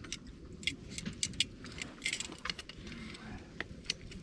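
Scattered sharp light clicks and clinks, a dozen or so at irregular spacing, over a low background rumble, with a brief low voice about three seconds in.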